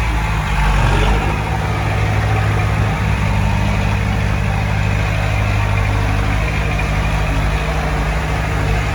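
Heavy diesel engine of earthmoving machinery running steadily at low revs, with a brief swell about a second in.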